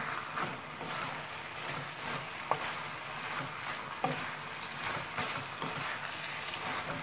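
Chicken and vegetables sizzling in a nonstick pan as a spatula stirs and tosses them, with a couple of sharp knocks of the spatula against the pan, about two and a half and four seconds in.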